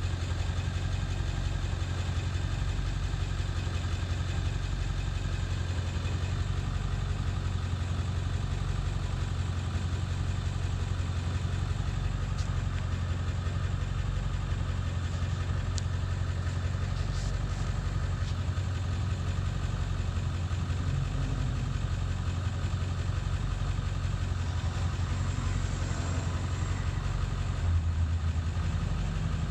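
Ford 7.3 L Powerstroke V8 turbodiesel idling steadily with a rough idle, still running poorly after the ICP (injection control pressure) sensor was replaced.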